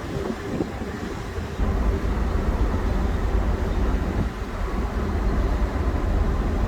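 Typhoon wind buffeting the microphone: a deep, noisy rumble with no clear tone, getting louder about one and a half seconds in.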